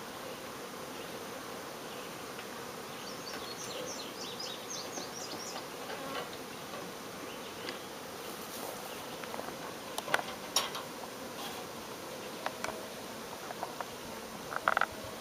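Honey bee swarm buzzing steadily. A brief run of high chirps comes a few seconds in, and a few sharp clicks come around two-thirds of the way through and near the end.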